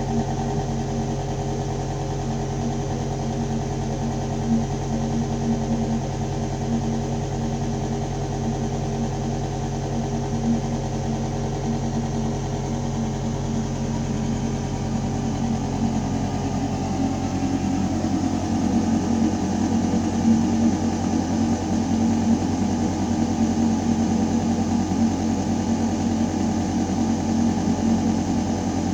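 Building ventilation system running with a steady deep mechanical hum, air moving through metal ductwork. A little over halfway through, the lowest hum drops away and a rougher, slightly louder hum takes over.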